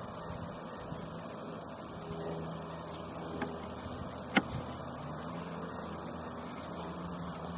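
Steady low hum with a hiss over it, and one sharp click a little over four seconds in.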